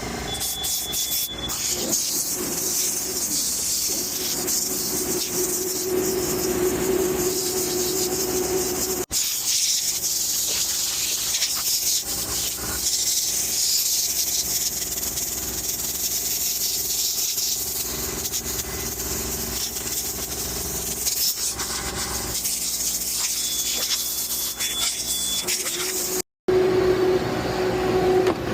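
Steady hissing spray on a clogged air-conditioner coil, with a low hum underneath. It breaks off briefly about nine seconds in and again near the end.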